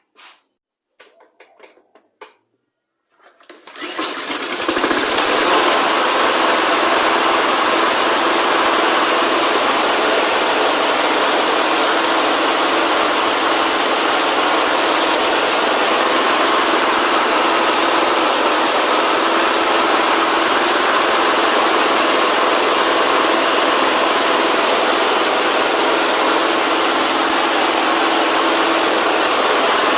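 A few faint clicks, then a Victa lawn mower's 163cc four-stroke engine starts about three seconds in and runs at a steady, even speed. It is running really nice and smooth.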